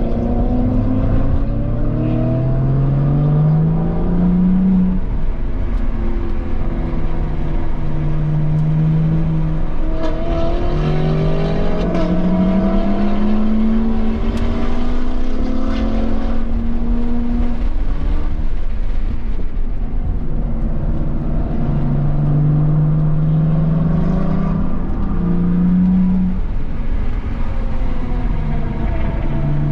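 2017 BMW M240i's turbocharged 3.0-litre straight-six engine being driven hard, its pitch climbing under acceleration and dropping sharply several times as the driver shifts the six-speed manual or lifts. Steady road and tyre rumble runs underneath.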